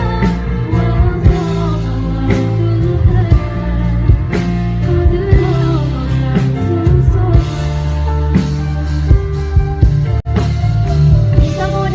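Live band playing loud amplified music with a singer over a steady drum beat; the sound cuts out for an instant about ten seconds in.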